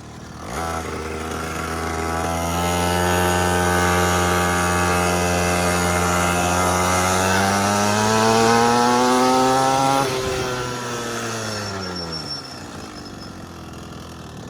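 Small petrol quad bike engine running under throttle. Its note climbs slowly for several seconds, then drops away sharply about ten seconds in and fades out.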